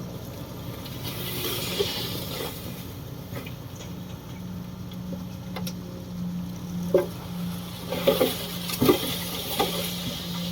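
An engine running steadily with a low, even hum, with several short knocks and clatters near the end.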